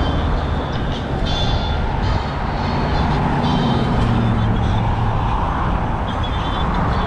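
Steady rumble and wind noise from a moving bicycle, with a motor vehicle passing close by; its engine note falls in pitch as it goes past, about halfway through. Snatches of voices can be heard now and then.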